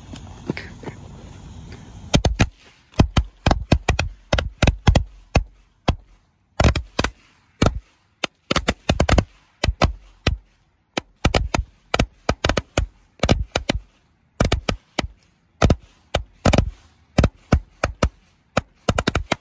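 Fireworks going off in a long irregular series of sharp bangs, several a second in clusters, starting about two seconds in.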